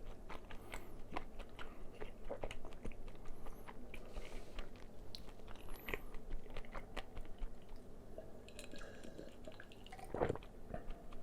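Close-miked chewing and biting of crispy fried chicken, with crunchy crackles of the batter, thick for the first seven seconds or so and then sparser, and a single louder sound about ten seconds in.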